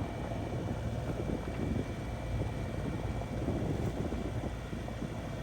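Steady low rumble of a sailing catamaran motoring under way, mixed with wind buffeting the microphone, and a faint steady high whine throughout.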